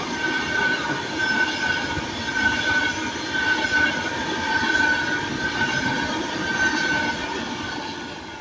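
Class 390 Pendolino electric train passing at the platform, with a steady high whine over rolling rail noise, easing off near the end.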